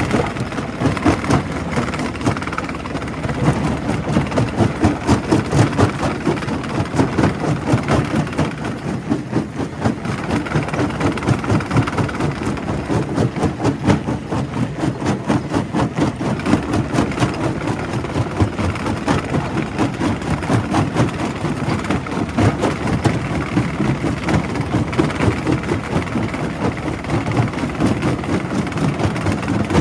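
Primary rock crusher running and crushing stone: a continuous heavy mechanical rumble that pulses rapidly in loudness, with dense knocks and grinding.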